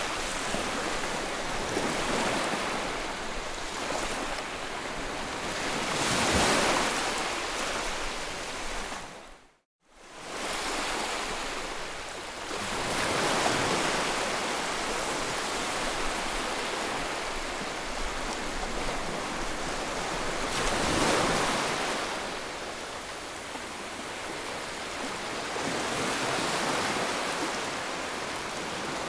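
Ocean surf: waves washing in one after another, swelling and easing every several seconds. About ten seconds in, the sound cuts out to silence for a moment and fades back in.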